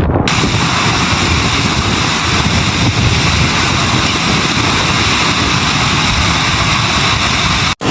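Loud, steady rushing noise of storm wind buffeting the microphone. It cuts off abruptly near the end.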